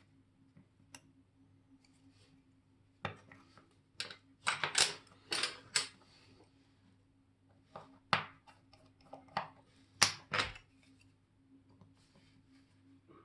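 Small metallic clicks and taps of watchmaker's tools and watch parts being handled on a bench, irregular and coming in two clusters a few seconds apart.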